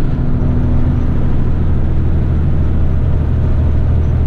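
Heavy rigid truck's engine running steadily on the road: a low, even drone.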